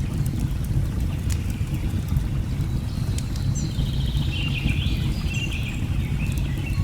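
Steady low rush of a waterfall with scattered small crackles of a log fire, and birds chirping in short high calls that become busier from about halfway through.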